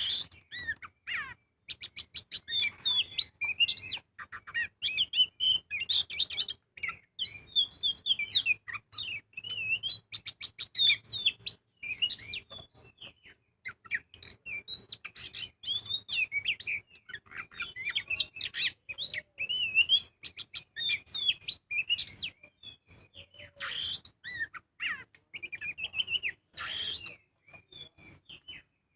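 Oriental magpie-robin (kacer) singing a long, varied song of loud whistled notes and chirps with hardly a pause, including a fast buzzy rattle a couple of seconds in and two short harsh rasping calls near the end.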